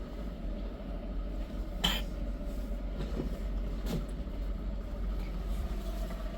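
A vehicle running with a steady low rumble and a faint steady hum, with two sharp clicks about two seconds apart.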